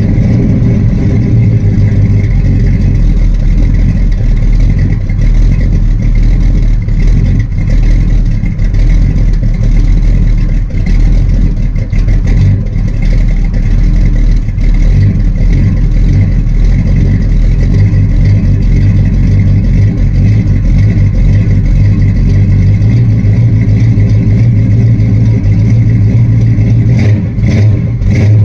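1972 Dodge Charger's 383 big-block V8 running at a steady idle while it warms up after a cold start, loud, with a deep, even exhaust note.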